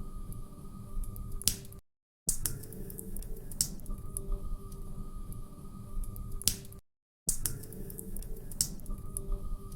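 Wood fire crackling in a fireplace, with scattered sharp pops over a low steady rumble and hum. The sound cuts out to silence twice, about two and seven seconds in, where a short recording repeats.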